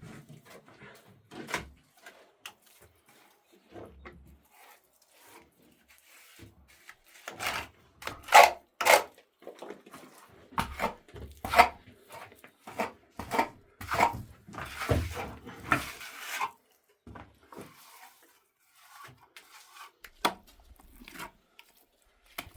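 Irregular knocks, taps and scrapes of hand work with hard objects, with a busier, louder run of knocks in the middle.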